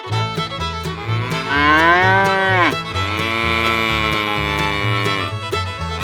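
Cow mooing in long calls, one rising and then dropping away, the next held steady, over background music with a stepping bass line.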